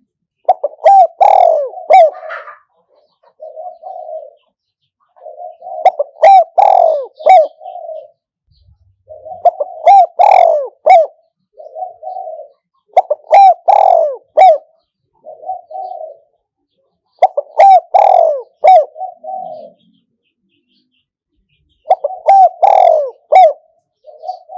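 A spotted dove coos repeatedly: six phrases, each a few loud coo notes followed by softer trailing notes, about every four seconds. This is the advertising call of a caged decoy bird used to lure wild doves.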